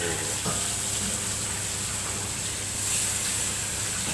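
Ground chili spice paste frying in hot oil in a wok over a gas burner, a steady sizzling hiss.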